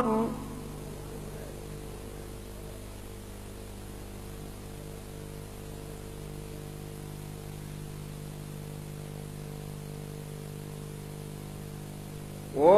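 Steady electrical mains hum with a faint hiss during a pause in a Quran recitation. The reciter's held note ends just at the start, and his voice begins again near the end.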